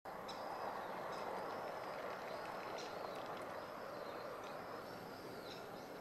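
Short, high, thin bird calls repeated about once a second, over a steady rushing background noise.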